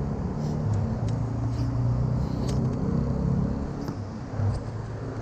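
Steady low hum of a motor vehicle's engine running, easing off briefly near the end, with a few faint clicks over it.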